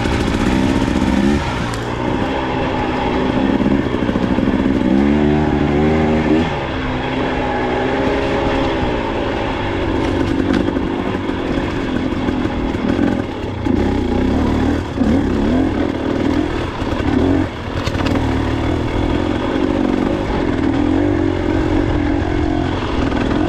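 Dirt bike engine running under load on a trail climb, its pitch rising and falling again and again as the throttle is opened and eased, with a few brief dips where it backs off.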